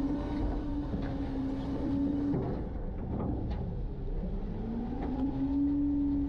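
Garbage truck's engine and hydraulic packer running, a steady drone that breaks off a little over two seconds in and glides back up to a steady pitch about two seconds later, with a few faint knocks.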